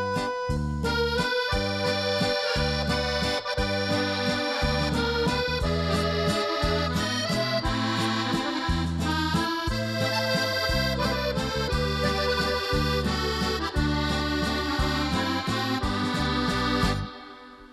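Accordion music: a sustained melody over a steady, rhythmic bass-and-chord accompaniment. It drops away sharply near the end.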